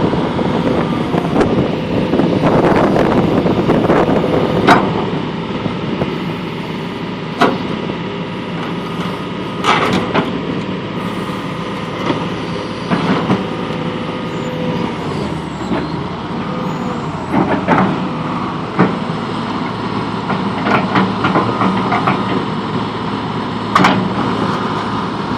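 John Deere 200LC hydraulic excavator running and being operated: its diesel engine runs steadily under a held tone that shifts in pitch, and sharp knocks come every few seconds as the machine works.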